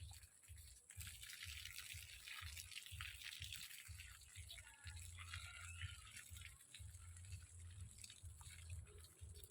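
Faint trickling and dripping of water.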